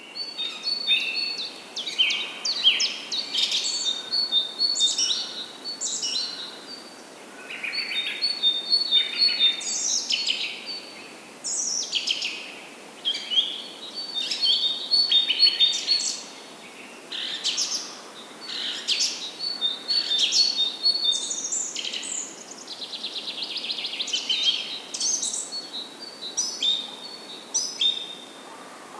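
Birds singing, a busy run of short chirps, whistled phrases and quick trills one after another.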